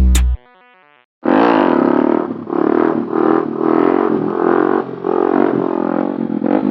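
A last beat of music cuts off, and about a second later a small motorcycle engine starts running loud, its drone pulsing about twice a second as the throttle is worked.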